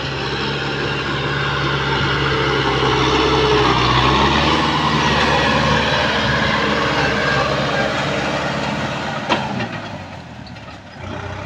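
Kubota M6040 tractor's diesel engine running under steady power, its note shifting about four seconds in. A sharp click comes about nine seconds in, and the sound drops for a second or so before picking up again.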